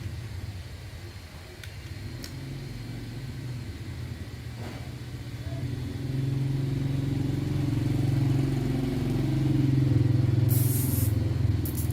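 An engine running with a steady low rumble that grows louder about six seconds in, with a short hiss near the end.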